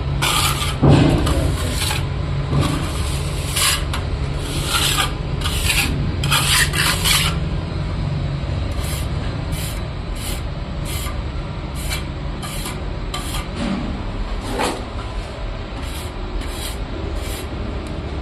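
Repeated scraping or rasping strokes, irregular and louder for the first several seconds, then settling into an even rhythm of about two strokes a second, over a steady low hum.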